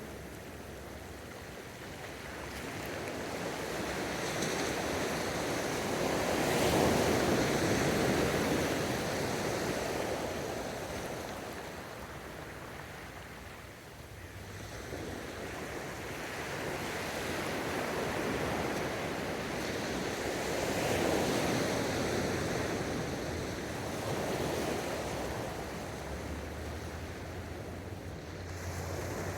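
Gentle ocean surf: waves breaking and washing in, swelling slowly twice, loudest about a quarter and about two-thirds of the way through.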